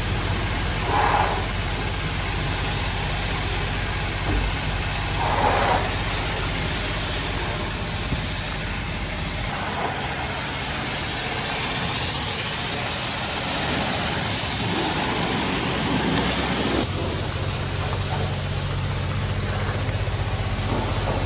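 Self-serve car wash pressure wand spraying water onto a car with a steady hiss, over a low steady hum. The spray stops about 17 seconds in, leaving the hum.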